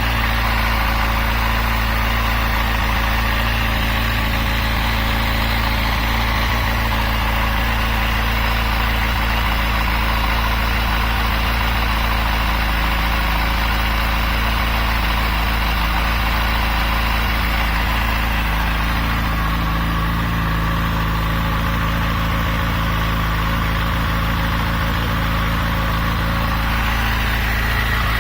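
Yamaha FZ6's inline-four engine idling steadily. The owner hears a knock from this engine whose cause he does not know, and says the cam chain is in perfect condition.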